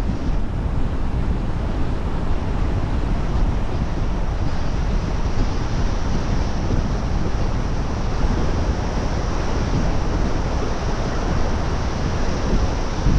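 Steady road noise of a car driving: tyre rumble and wind noise running evenly, with no change in pace.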